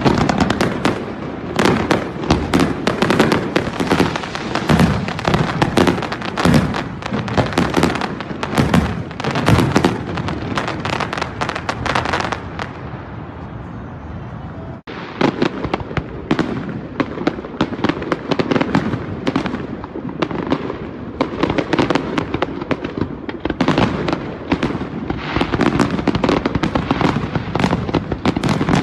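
Fireworks display: a dense, rapid run of bangs and crackles that thins to a quieter hiss about twelve seconds in, then breaks off suddenly and resumes as another barrage of bangs.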